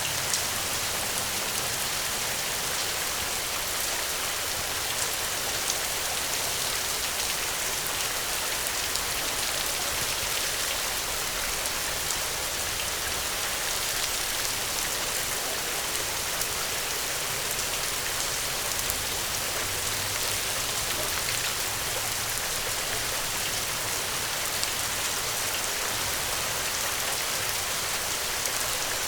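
Steady rain falling and pattering on a surface, an even hiss with scattered drop ticks.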